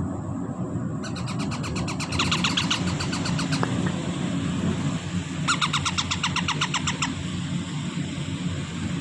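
Baby parrot chicks begging for food: rapid trains of high chirping calls, about eight a second, in two bouts separated by a pause of a couple of seconds, over a steady low hum.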